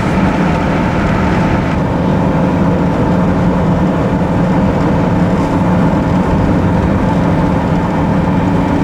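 Steady engine and tyre noise of a car driving at speed, heard from inside the cabin, with a constant low hum.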